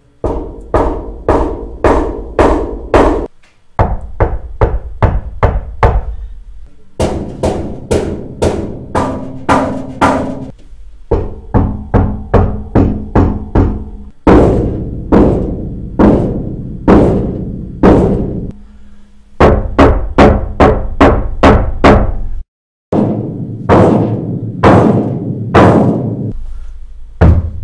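Knocking on the sheet-metal panels of a 1971 Ford F100 cab (floorboard, upper firewall, back wall, roof) that are coated with Lizard Skin sound-control and ceramic heat-barrier coating. The knocks come in about seven quick runs of several knocks a second, with short breaks between them. The cab sounds deadened, without the reverb it had before the coating.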